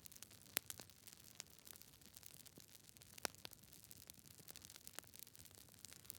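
Campfire crackling: irregular pops and snaps of burning wood over a soft hiss, with sharper pops about half a second in and again about three seconds in.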